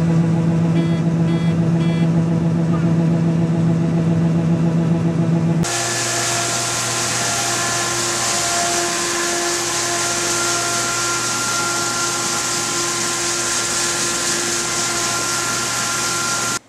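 Farm machinery running steadily with a strong hum. About five and a half seconds in it cuts to a different steady machine noise with a loud hiss.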